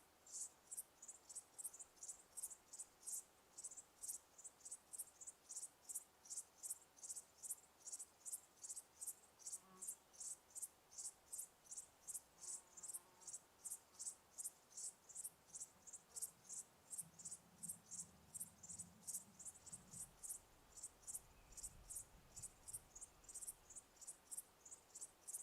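Crickets chirping faintly in an even, steady rhythm of about two to three high-pitched chirps a second.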